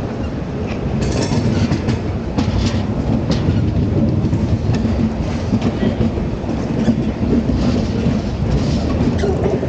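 LHB passenger coaches running along the track, heard from an open coach doorway. Wheels on rail give a steady rumble with irregular clicks and clacks.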